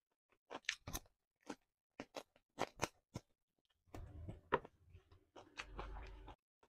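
Close-up eating sounds of fried chicken being bitten and chewed: a string of sharp crunches and wet mouth clicks, then from about four seconds in a low rumble under further clicks.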